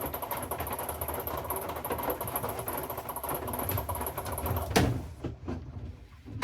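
Washing machine running with a steady mechanical hum. About three-quarters of the way through the running noise stops and there is a sharp knock, followed by a couple of fainter knocks.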